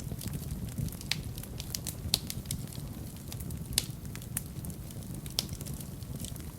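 Wood fire burning in a fireplace: a steady low rumble of the flames with irregular sharp crackles and pops, a few louder snaps standing out.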